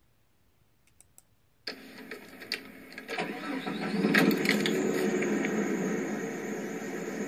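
1998 Jeep Grand Cherokee's 4.0 L straight-six starting up and settling into a steady idle, played back from a start-up video through a device speaker. It starts suddenly almost two seconds in, is loudest about four seconds in, then runs evenly; two faint clicks come just before it.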